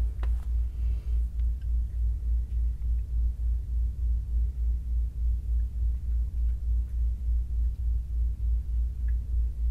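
A low, steady rumble throbbing evenly about three to four times a second, with a few faint ticks.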